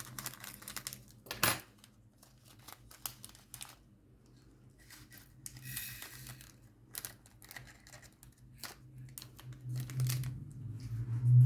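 Small plastic bags of diamond-painting crystal drills being handled: crinkling plastic with scattered light clicks and clinks as the drills and containers are moved, and a short rustling stretch about halfway through.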